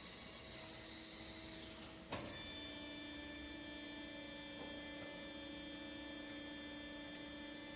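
A steady electric hum with several steady tones, broken by a sharp click about two seconds in, after which the hum carries on at a slightly changed pitch.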